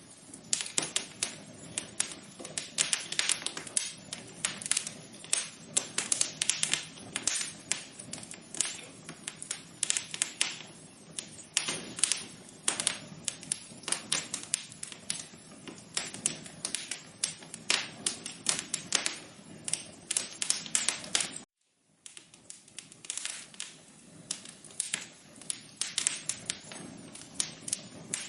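Wood fire crackling in a fireplace: irregular sharp pops and snaps over a low steady hiss. It cuts out for about half a second some 21 seconds in, then carries on.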